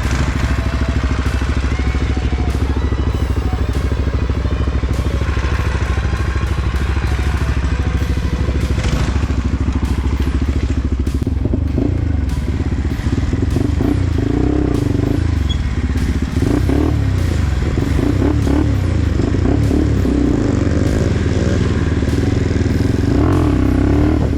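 Mini bike's small single-cylinder engine running while being ridden, its note shifting up and down with the throttle from about halfway through, with many small knocks and rattles over the top.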